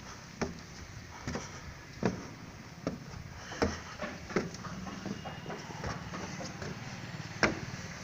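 A series of irregular sharp knocks, about one or two a second and unevenly spaced, over a steady low hum; the loudest knock comes near the end.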